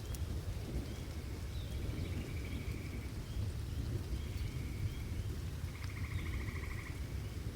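Steady rain with the low rolling rumble of distant thunder. Over it, birds give short chirps and a repeated trill, strongest about six seconds in.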